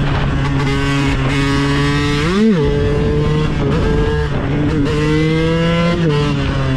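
KTM 125 EXC supermotard's single-cylinder two-stroke engine revving under load, its pitch climbing and then dropping sharply twice, about two and a half seconds in and again near the end, like gear changes or throttle blips.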